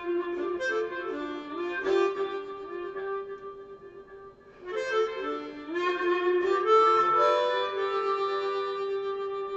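Harmonica playing chords and bent notes in two phrases. The second phrase starts about five seconds in and settles onto a long held note.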